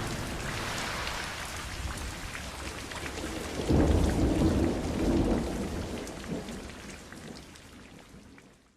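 Steady rain falling, with a roll of thunder rumbling in about a third of the way through and going on for a couple of seconds. The rain and thunder then fade away to silence near the end.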